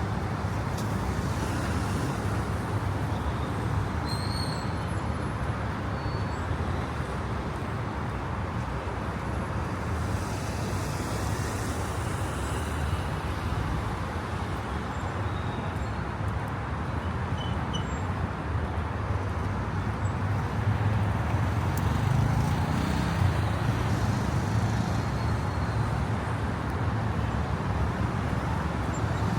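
Steady city traffic noise from passing cars. A deeper engine rumble swells in the last third.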